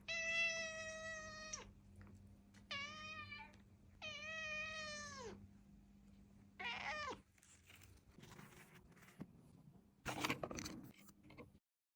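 British Shorthair cat meowing four times: three long, drawn-out meows that drop in pitch at the end, then a shorter one. Brief rustling follows near the end.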